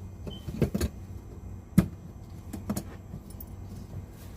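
Metal hand tools clinking and knocking as wrenches are sorted through, with a sharp clank a little under two seconds in.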